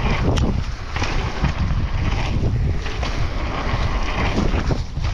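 Wind buffeting a helmet or bike camera's microphone during a fast mountain-bike descent, with a heavy, continuous rumble from the bike running over rough, wet ground.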